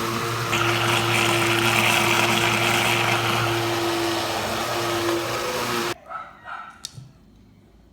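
Kitchen blender running steadily, blending a liquid lemon pie filling of milk, condensed milk, cream cheese and lemon juice, then switched off suddenly about six seconds in. A few faint short knocks follow.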